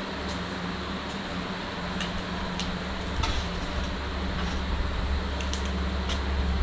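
Steady low machine hum, like a shop fan running, that grows louder in the second half, with a few light clicks and taps scattered through it.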